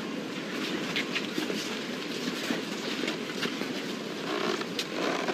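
Steady mechanical rumble with irregular sharp metallic clicks and clanks.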